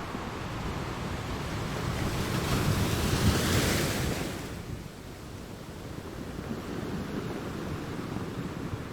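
Ocean surf: a wave swells and breaks about three to four seconds in, then the wash subsides into a steadier, quieter rush of water.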